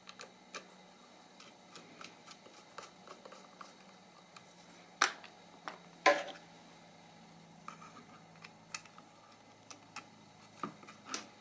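Small, irregular clicks and taps of plastic radio parts and small tools being handled during reassembly, with two louder knocks about five and six seconds in.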